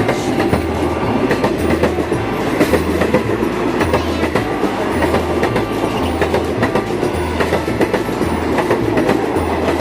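Diesel-hauled passenger train's coaches rolling past over the rails, wheels clattering on the rail joints in a steady stream of clicks and rumble.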